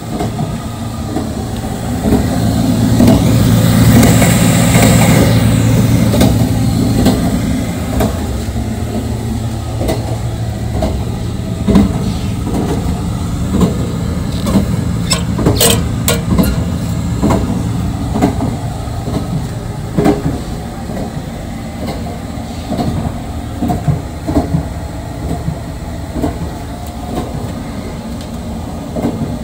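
JR 681 series express electric train running, heard from inside: a steady rumble and hum that swells louder a few seconds in, with scattered clacks of wheels over rail joints and one sharp clack near the middle.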